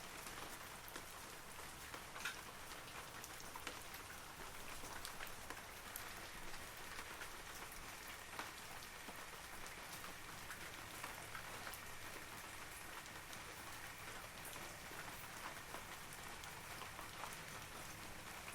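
Steady rain falling on forest foliage, a continuous patter with scattered individual drops hitting sharply, one louder drop about two seconds in.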